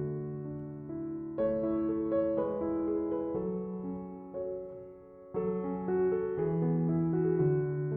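Background music: slow, gentle piano, with notes and chords struck and left to ring, two fresh chords coming in about a second and a half in and again past the five-second mark.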